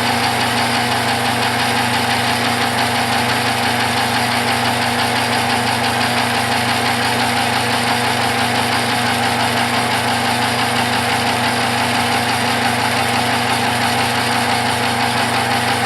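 Metal lathe running steadily: a constant motor and gear-train hum with a higher whine over it.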